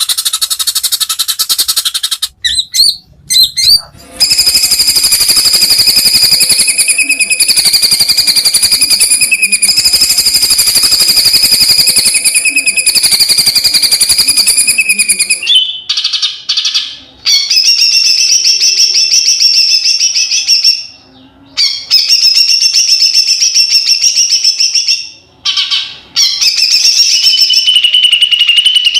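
Male white-rumped shama (Kalimantan murai batu) singing loud, very rapid rattling 'trotol' trills: one unbroken run of about eleven seconds, then shorter trilled phrases broken by brief pauses.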